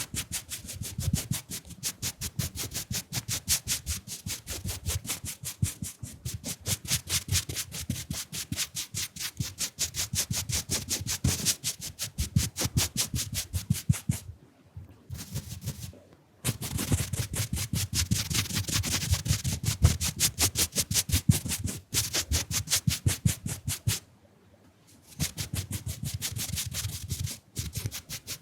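Round makeup brush brushed fast and close against the microphone, a quick run of short scratchy strokes at about eight a second. It breaks off twice, briefly about 14 seconds in and again about 24 seconds in.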